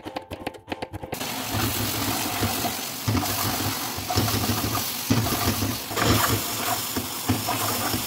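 Knife tapping on a cutting board for about the first second, then a wok stir-fry on a gas burner: a loud, steady sizzle of food in hot oil, with the pan rocking and scraping on the grate as it is tossed.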